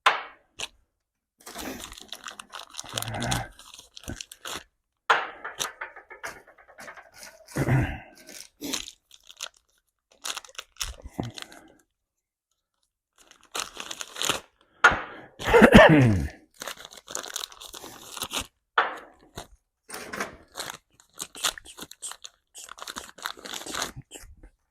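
Hand work on steel parts: irregular clinks, knocks and rattles of bolts and metal pieces being handled, with some rustling. Past the middle comes the loudest sound, a scraping squeal of metal that falls in pitch.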